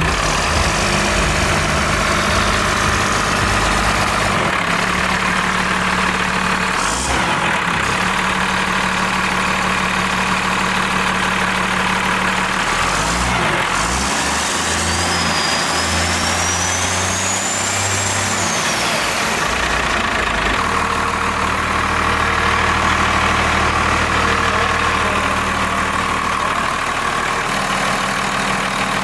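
12-valve Cummins diesel engine running at idle with its newly fitted HE351 turbo, a steady engine sound that changes abruptly a few times. About halfway through, a high whistle glides up and then back down.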